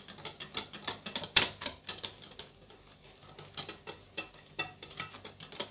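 A utensil stirring cake batter in a mixing bowl, with quick irregular clicks and taps against the bowl's sides, one louder knock about a second and a half in.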